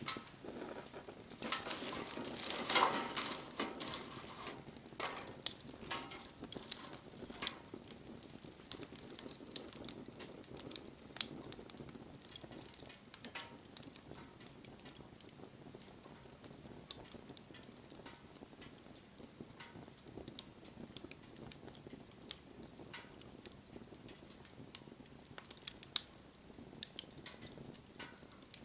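Wood campfire burning: scattered sharp pops and crackles over a steady hiss, with a louder stretch of hissing and crackling about two to four seconds in.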